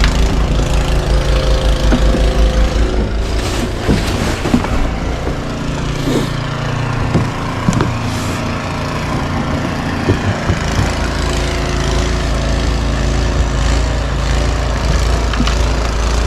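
An engine running steadily. Its low hum eases off between about five and ten seconds in, then picks back up, with a few short knocks over it.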